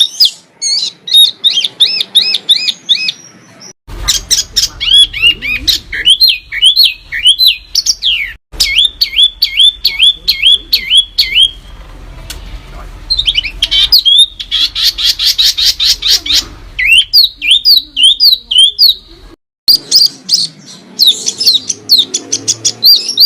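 Small songbirds singing loud, fast runs of repeated high chirps and quick rising and falling whistled notes. The song is spliced from separate recordings, breaking off abruptly three times, about four, eight and nineteen seconds in.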